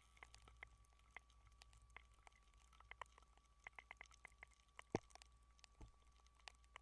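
Near silence: faint, irregular clicks and crackles over a steady low hum and a thin, steady high tone.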